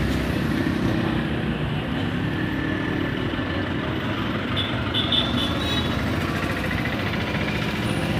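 Engine of heavy construction machinery, a JCB-type digger, running steadily.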